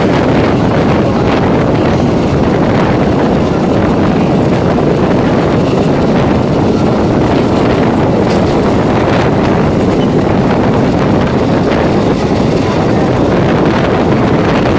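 EMU electric local train running at speed, a steady loud rush of running noise with wind buffeting the microphone.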